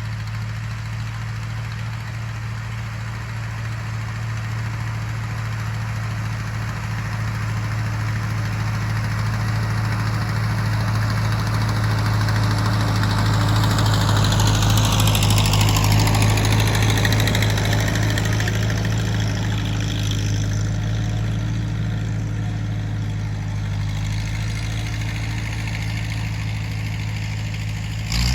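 Tractor engine running with a steady deep hum. It grows louder to a peak about halfway through and then eases off again, as if passing close by.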